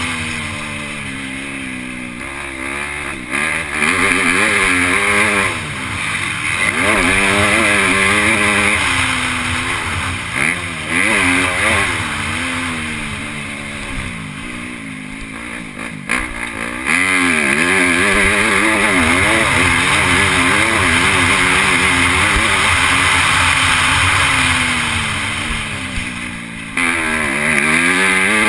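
MX2 motocross bike engine heard from onboard during a race, revving up and down over and over as the throttle is opened and closed, with long stretches of loud, steady full-throttle running in between.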